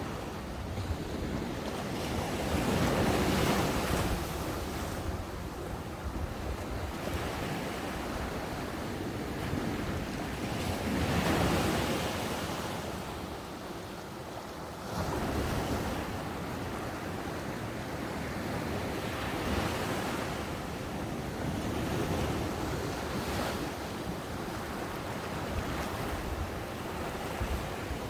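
Ocean waves breaking on a beach, a steady wash of surf that swells louder as waves crash, about three seconds, eleven seconds and fifteen seconds in, with some wind on the microphone.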